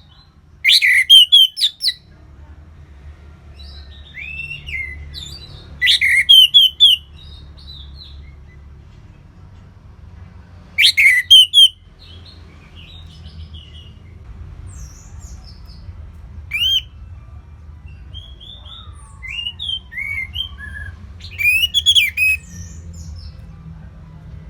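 Songbirds singing. Loud bursts of four or five rapid, sharp chirps come about every five seconds, with softer, varied whistled phrases between them.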